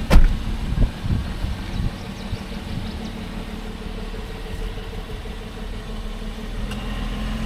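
A vehicle's engine idling steadily, with a sharp click just after the start and a few knocks in the first second.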